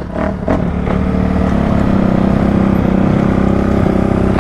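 Dirt bike engine running at steady, fairly high revs.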